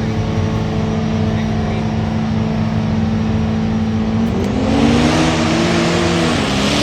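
Truck engine running at a steady pitch, then accelerating hard about four seconds in, its pitch climbing and wavering over a loud rush of exhaust noise.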